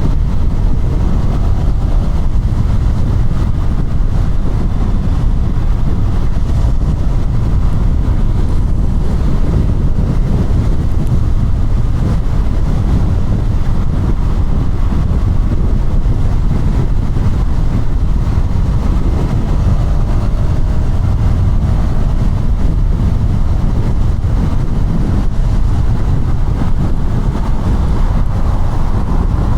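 KTM Duke 200's single-cylinder engine running on the move, mixed with heavy wind rumble on the microphone from riding at speed.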